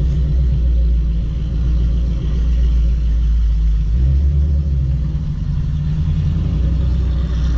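Car engine running low and steady while driving, its note changing about halfway through.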